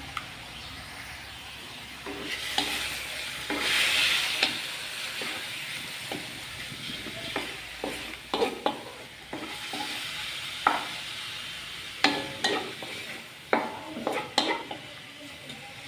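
Chicken pieces sizzling in oil in a large metal wok, with a louder stretch of sizzling about four seconds in. From about halfway, a wooden spatula stirs and turns the pieces, knocking and scraping against the wok in a series of sharp strokes.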